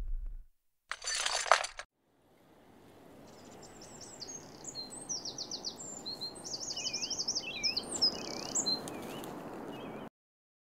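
Quiet outdoor ambience with small birds chirping: rapid high trills and short warbling calls over a steady hiss. A brief rushing burst comes about a second in.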